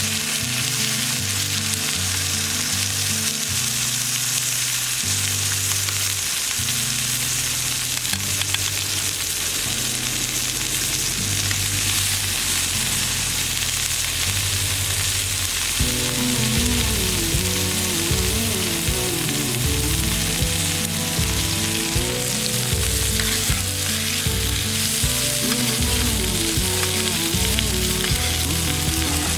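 Steak sizzling steadily in a pan over a campfire, a constant frying hiss. Background music with a low melody runs underneath and grows fuller about halfway through.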